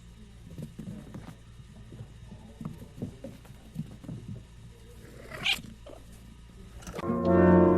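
A cat making a few short, faint sounds, with one brief, sharper cry about five and a half seconds in. Loud brass-led music comes in near the end.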